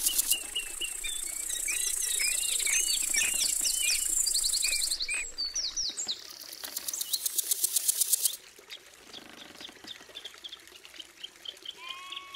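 Birds chirping: many short, quick chirps and whistles over a steady high hiss that stops about five seconds in. A rapid high trill follows, and after about eight seconds the sound drops to scattered quieter chirps.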